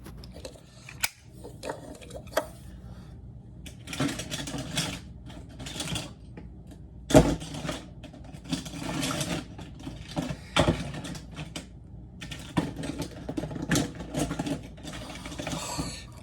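Toys being handled and moved about: rustling and scraping with scattered clicks, and a sharp knock about seven seconds in and another about ten and a half seconds in.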